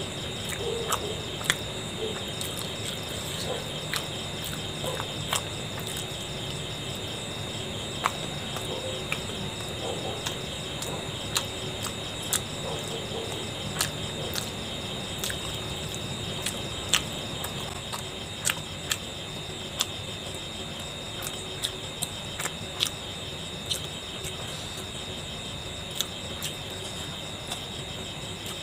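Eating sounds while chewing and tearing soft steamed momos: scattered sharp mouth clicks and smacks, over a steady high chirring of crickets.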